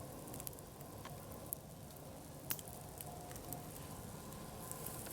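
Nodya log fire, two logs burning along their length, crackling faintly with scattered small pops and a low hiss of burning wood.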